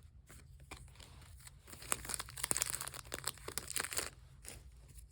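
Foil Pokémon booster pack wrapper crinkling and being torn open, with a burst of crackling for about two seconds in the middle and softer handling before and after.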